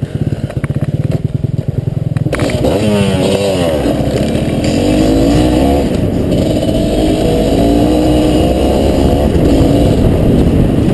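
Dirt bike engine running at a low, even beat for about two seconds, then opened up, its pitch swooping up and down and staying under throttle as the bike rides on.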